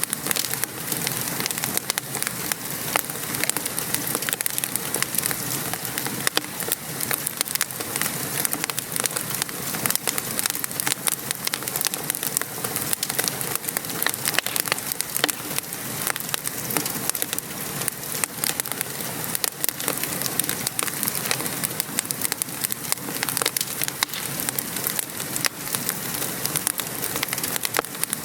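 Steady rain pattering, mixed with a wood fire's constant small crackles and pops.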